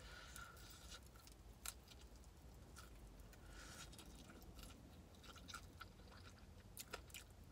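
Faint chewing of a bone-in chicken wing, with scattered small wet clicks as the meat is bitten and pulled from the bone.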